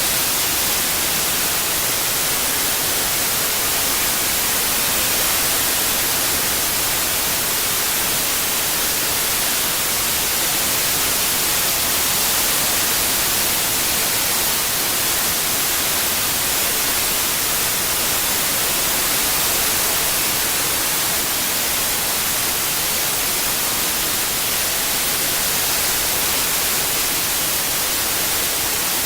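Steady synthetic white noise: an even, unbroken hiss with its energy strongest in the high frequencies.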